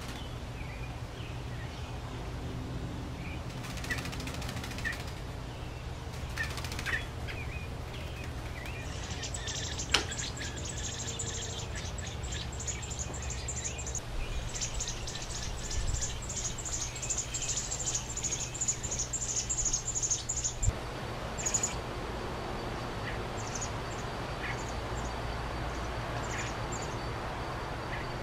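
Birds chirping around an American robin nest. Short high chirps come now and then throughout, and from about a third of the way in to about two-thirds through there is a long run of rapid, high chirps that stops abruptly.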